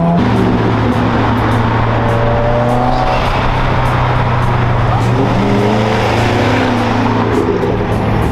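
Car engine running under acceleration, its pitch climbing in stretches and dropping back, as with gear changes.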